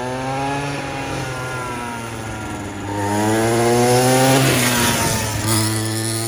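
Small 50cc quad bike engine revving, its pitch rising and falling with the throttle. About three seconds in it revs up to its loudest just past four seconds, then drops back.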